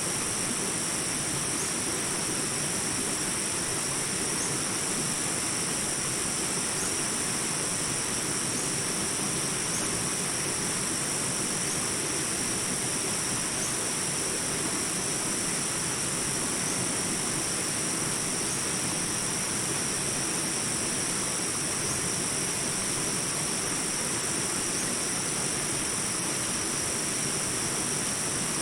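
Jungle ambience of small river rapids: water rushing steadily, with a constant high-pitched drone above it.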